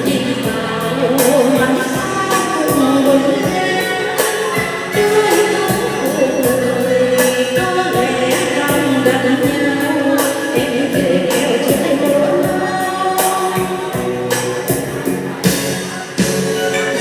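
Vietnamese song with a sung melody over a backing track of instruments and a steady beat.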